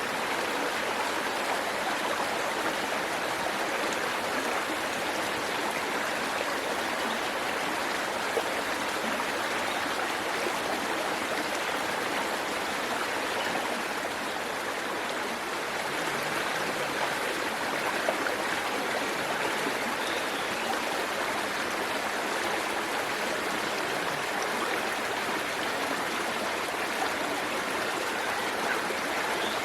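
Waterfall water rushing and splashing in a steady, even flow.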